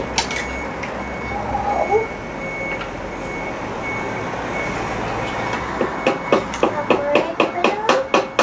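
A short high electronic beep repeating about every two-thirds of a second over a low rumble, like a vehicle's reversing alarm. In the last couple of seconds, a quick run of sharp taps as a screw is hammered into a wooden board.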